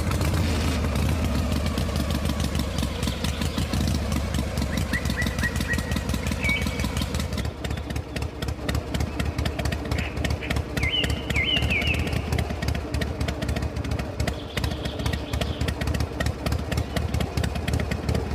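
A small engine running steadily with a fast, even firing pulse. Birds chirp a few times in the middle.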